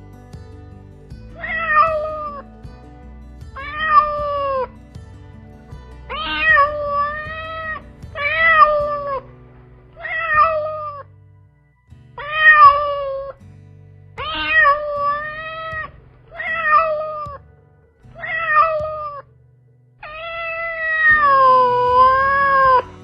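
Kitten meowing repeatedly, about ten calls roughly two seconds apart, the last one long and drawn out with a dip in pitch.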